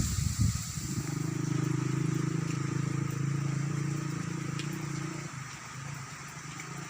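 A vehicle engine running steadily with a low hum, dying away about five seconds in, over the hiss of rain.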